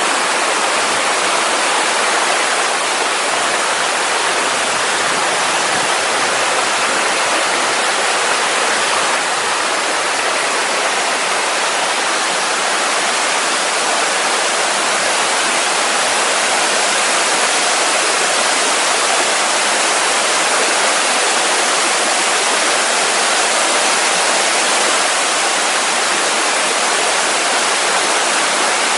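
Mountain waterfall and stream: a loud, steady rush of falling water, unchanging throughout.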